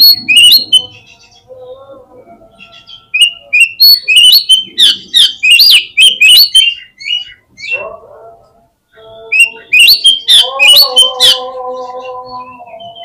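Oriental magpie-robin calling in bursts of rapid, sharp notes, with a short lull about one to three seconds in. These are agitated calls of the kind played as a lure to provoke other magpie-robins. Near the end a lower, drawn-out tone with several stacked pitches is held for about two seconds.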